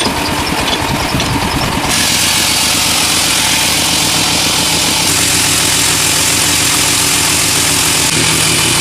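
Engine-driven sawmill machinery running. About two seconds in, the sound switches abruptly to a steady, hiss-like machine noise.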